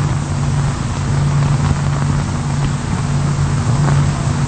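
Steady low mechanical drone with an even hiss, unchanging throughout.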